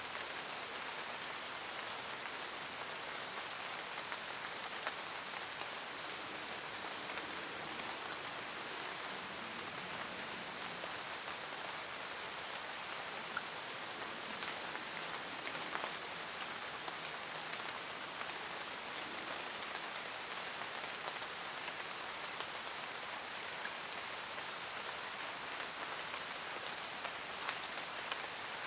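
Steady rain falling in a forest, a continuous even hiss with scattered individual drops ticking on leaves.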